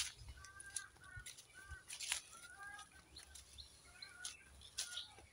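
Faint birdsong: short chirping notes repeating every half second or so, with scattered light clicks and rustles.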